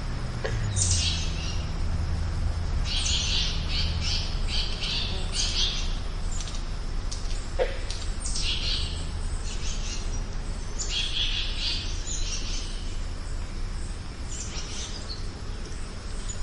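Wild birds calling outdoors, with short harsh, chattering phrases repeating every couple of seconds, over a steady low rumble.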